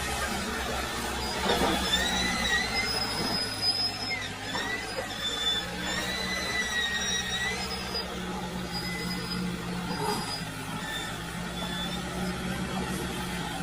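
A Fiat Ghazi tractor's engine runs steadily under load. A high, wavering squeal rises and falls over it for several seconds, then fades to fainter chirps.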